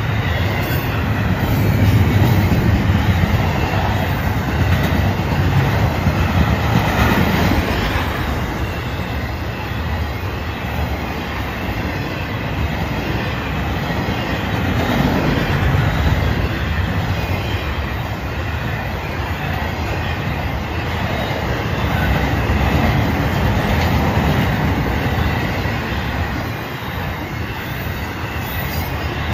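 Freight cars of a Florida East Coast Railway intermodal train, double-stack container cars and trailer cars, rolling past on steel wheels. The rumble and clatter of wheels on rail is steady and loud, swelling and easing a little as the cars go by.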